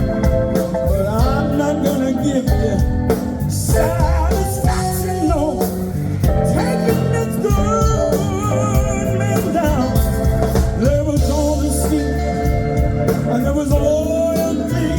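Live blues band playing an instrumental break: a lead instrument bending and sliding its notes over a steady band backing, with an organ in the mix.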